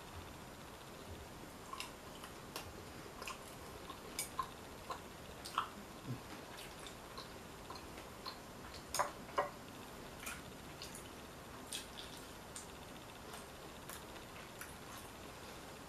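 Chewing a crunchy toasted hard taco shell: irregular crisp crunches and mouth clicks, the loudest a pair about nine seconds in.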